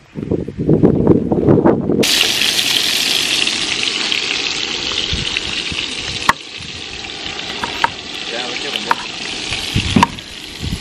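Wind buffeting the microphone, then about two seconds in a steady sizzling hiss of food frying in a pan starts abruptly. The hiss fades slowly, with a few sharp clicks over it.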